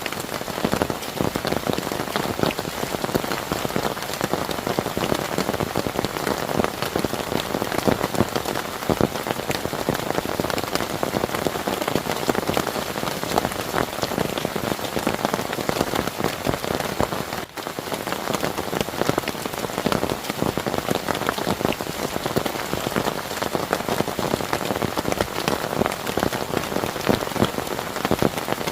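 Heavy rain pouring steadily, a dense patter of drops striking a surface, with a split-second dropout a little past halfway.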